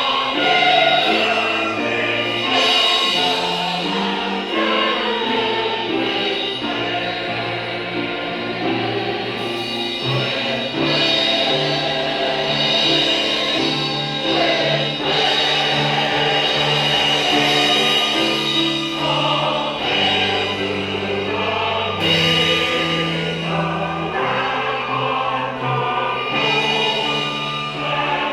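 Church choir singing a hymn with accompaniment, held chords changing every second or so.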